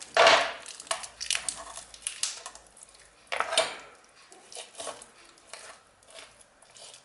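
Kitchen handling noises: dishes and utensils clattering and scraping. The loudest scrape comes right at the start and another about three and a half seconds in, with smaller clicks between and after.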